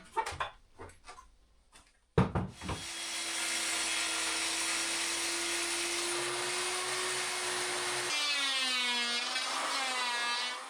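Electric table saw running and cutting 15 mm plywood, starting suddenly about two seconds in after a few light knocks; its sound changes near the end before stopping.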